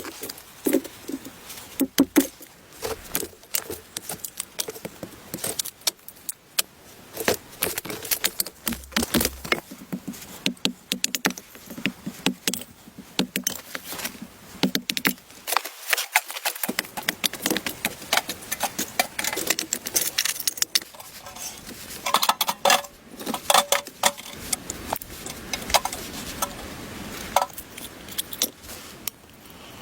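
Small hard objects being handled, with irregular clinks, clatters and rattles throughout.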